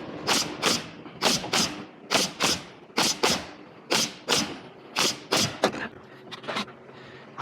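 Hammer blows on wood, struck mostly in quick pairs about a third of a second apart, a pair roughly every second, with the last few blows spaced singly and fainter near the end.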